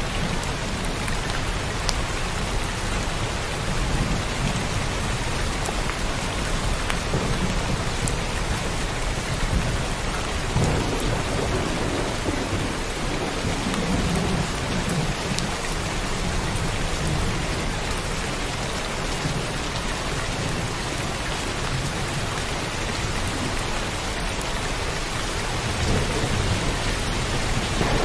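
Heavy rain falling steadily, with a low rumble of thunder swelling about ten seconds in and fading over several seconds.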